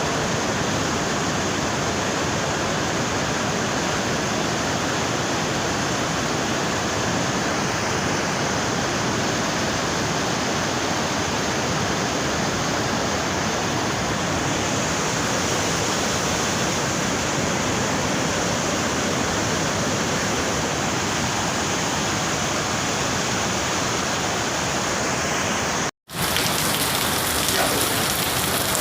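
Heavy rain with rushing water, a steady, even noise. About 26 seconds in it cuts out for an instant and switches to rain hitting a hard surface.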